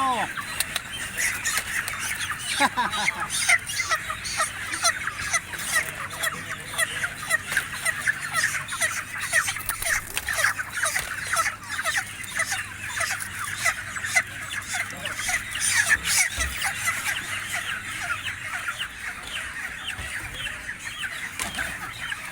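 A large mass of broiler chickens clucking and squawking in a dense, continuous chorus of short overlapping calls, with frequent sharp knocks among them.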